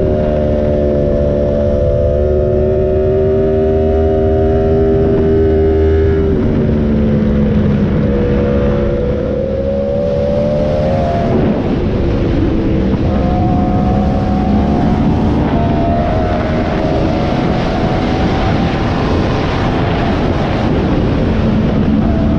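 Yamaha YZF-R1M's crossplane inline-four running through an SC Project exhaust at speed. Its pitch holds, drops about six seconds in, then climbs slowly over the rest of the stretch, as wind rush builds up alongside it.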